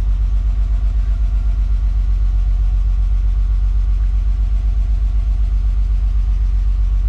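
BMW M50B20 2.0-litre straight-six with Vanos idling steadily with an even throb, on its first run after standing dry for about two years; the owner calls it a weird sound.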